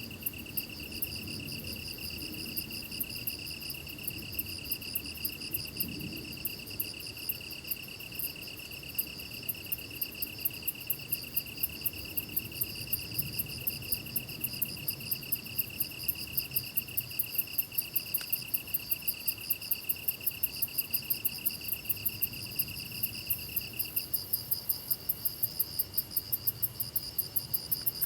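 A chorus of crickets and other grass insects chirping: one steady trill, a higher pulsing chirp, and a rapid high ticking of about three strokes a second that grows louder about a third of the way in. The steady trill drops in level near the end.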